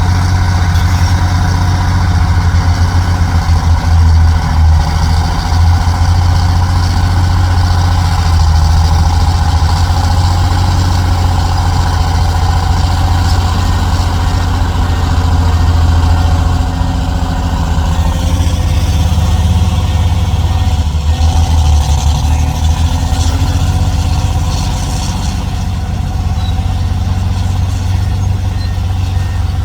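Heavy dump truck's diesel engine running steadily with a deep hum, its note shifting about eighteen seconds in and easing slightly near the end. A faint reversing beeper starts in the last few seconds.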